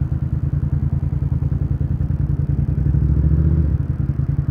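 Motorcycle engine idling, a fast even low rumble that swells slightly about three seconds in.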